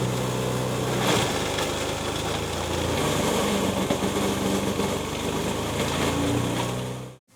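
Bio-shredder running: a steady engine hum with a rougher, louder grinding noise added from about a second in. The sound cuts off abruptly just before the end.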